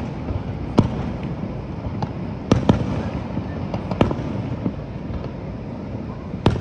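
Aerial fireworks shells bursting: a string of sharp bangs at irregular intervals, about five loud ones with softer pops between, over a steady rushing background.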